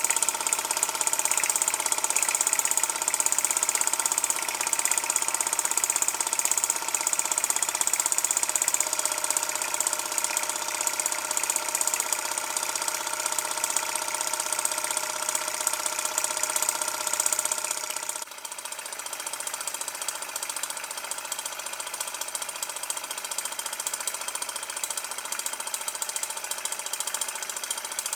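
TTB V2 homemade model stationary steam engine running steadily on live steam. About eighteen seconds in, its sound drops and becomes quieter.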